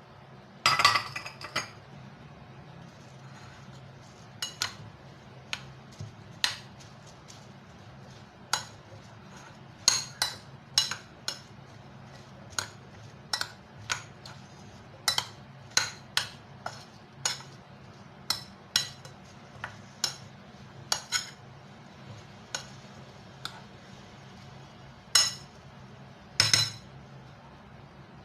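A metal spoon clinking and tapping against a cooking dish again and again at uneven intervals, as when potatoes are stirred or served, over a faint steady low hum.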